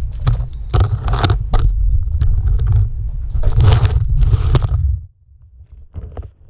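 Demolition derby cars with engines running low and heavy, with several crunching, scraping bursts of metal between about one and four and a half seconds in. The sound drops away sharply about five seconds in.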